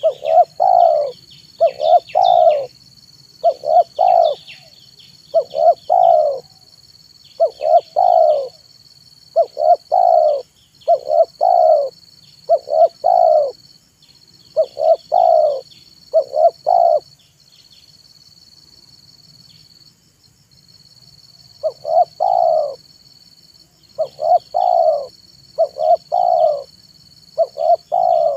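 Spotted dove (tekukur) giving its cooing song, short phrases of two or three low coos repeated about every one and a half seconds, with a pause of a few seconds past the middle. Faint chirps of small birds and a steady high-pitched buzz run underneath.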